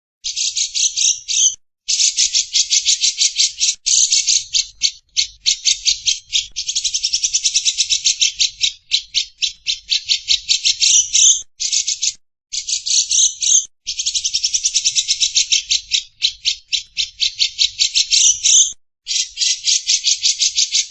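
Lovebird's long "ngekek" chatter: a rapid, high-pitched run of fast repeated notes, going on for several seconds at a stretch with brief breaks.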